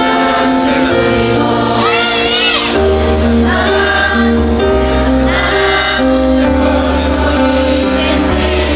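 Live pop song played through a concert PA, with many voices singing the melody together as the audience sings along with the singer over a steady bass line.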